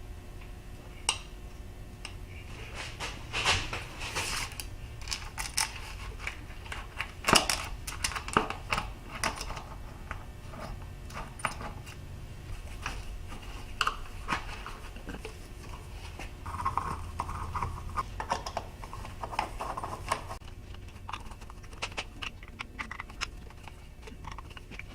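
Irregular light metal clinks, clicks and clatters of hand tools and small metal parts being handled while a way cover is fastened to the milling machine, over a faint steady hum.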